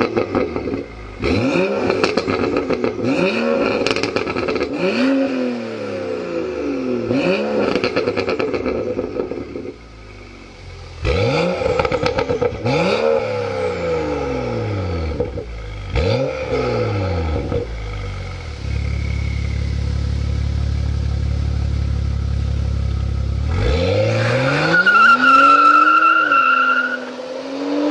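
BMW M235i's turbocharged straight-six running through a full Armytrix exhaust, revved in a string of quick throttle blips that rise and fall. Midway it settles to several seconds of steady idle, then near the end it is revved up once more and held high, with a high steady whine over the exhaust note.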